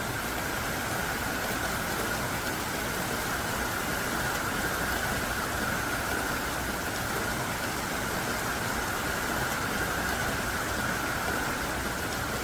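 Heavy rain falling in a steady, dense downpour, an even hiss without breaks.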